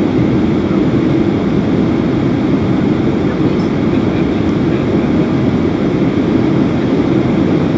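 Steady cabin noise inside a Boeing 737-800: an even rumble and hiss from its CFM56-7B engines and the airflow, heard from a window seat, with no change in pitch or level.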